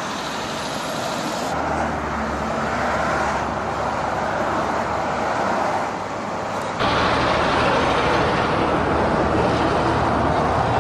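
Road vehicle noise from a heavy-haulage truck convoy: steady engine and tyre noise that changes abruptly in tone a few times and grows louder about seven seconds in.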